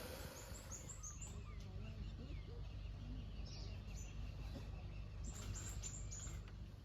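Faint birds calling: a run of short, very high chirps near the start and another near the end, with softer warbling calls between, over a low steady rumble.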